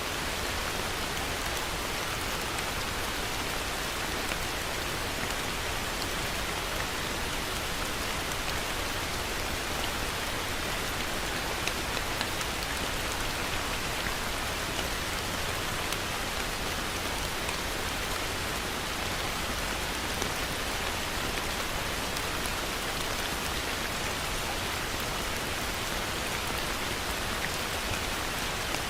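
Heavy rain falling steadily, a dense even hiss with countless fine drop patters.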